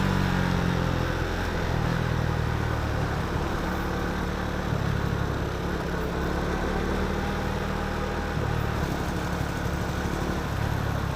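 KTM Duke 390 single-cylinder engine running while riding at a steady pace, its pitch stepping a few times with throttle changes, over a constant rush of wind and road noise.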